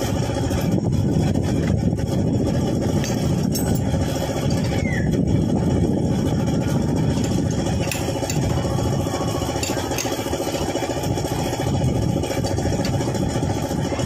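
Suzuki F6A three-cylinder engine running steadily at idle.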